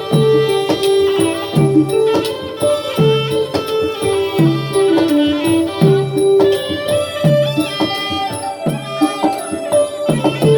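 Manora music played by a traditional ensemble: a melody of long held notes over a low drum stroke that bends in pitch, repeating about every second and a half, with sharp clicking percussion throughout.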